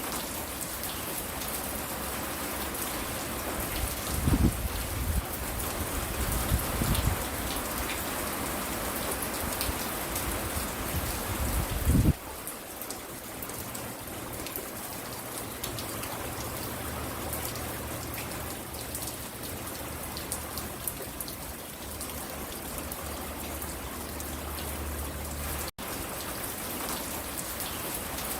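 Steady rain falling and pattering on surfaces. A few low rumbles swell up between about four and seven seconds in, and a louder one comes at about twelve seconds, after which the rain sound abruptly shifts. There is a split-second dropout near the end.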